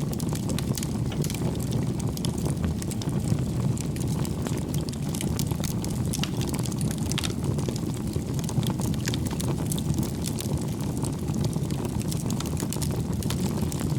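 Wood fire burning steadily, with a constant low rumble and frequent small, irregular crackles and pops from the burning logs.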